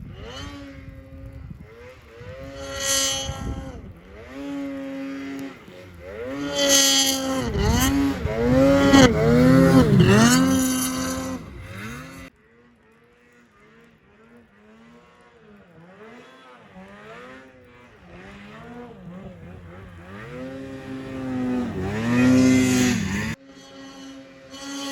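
Snowmobile engine revving up and down again and again, loudest in stretches about seven to eleven seconds in and again about twenty-two seconds in. The sound drops off suddenly twice, about halfway through and near the end.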